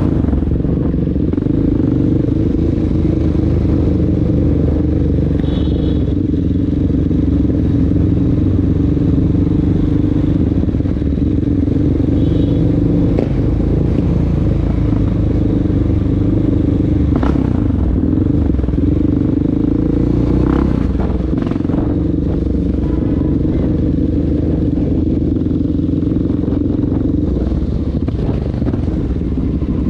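Honda XR650L dirt bike's single-cylinder four-stroke engine running steadily while riding on the street, a continuous drone with little change in pitch.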